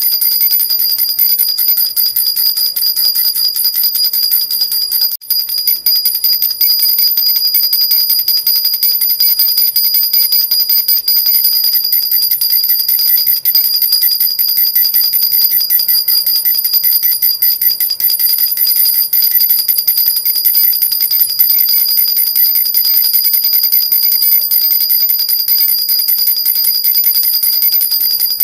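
Silver jhunjhuna baby rattle shaken continuously, its small bells jingling in a steady, bright, high ringing, with a brief break about five seconds in.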